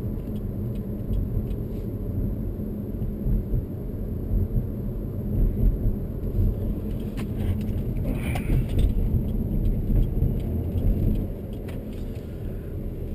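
Steady low rumble of road and engine noise inside the cabin of a 2021 Chevrolet Malibu with a 2.0-litre turbo four-cylinder, swelling and easing as the car is driven, with a few faint scattered ticks.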